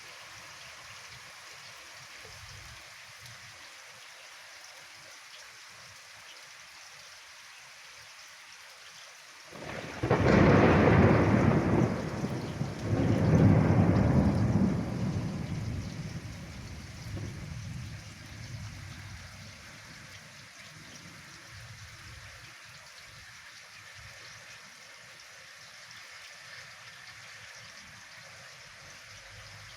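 Steady rain, then a thunderclap about a third of the way in that swells again a few seconds later and rumbles away over several seconds, leaving the rain.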